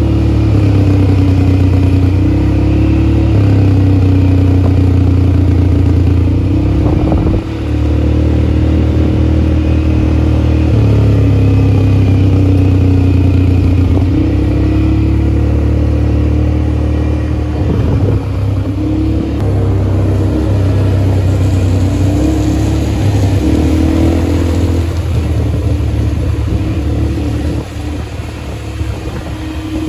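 ATV engine running under way, its speed rising and falling every few seconds.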